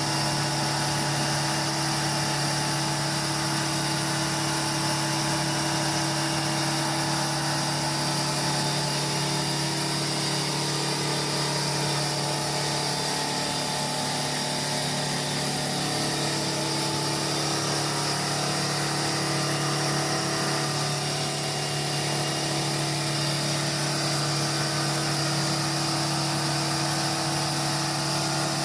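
Heavy truck's diesel engine running at a steady speed, a constant droning hum with no revving or changes.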